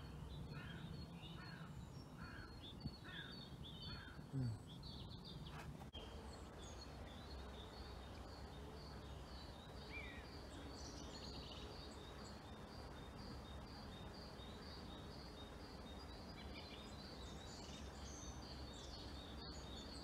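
Wild birds calling by the water. For the first few seconds there is a row of short harsh calls. After that a small bird repeats a high thin note about two or three times a second, over a faint steady outdoor background.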